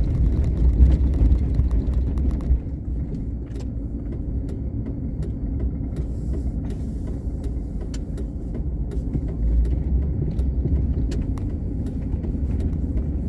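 Car driving, heard from inside the cabin: a steady low engine and road rumble, with scattered faint clicks and ticks over it.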